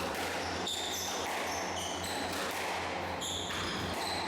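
Squash rally: the ball is struck by rackets and smacks off the court walls at irregular intervals, with shoes squeaking briefly on the court floor and a steady low hum underneath.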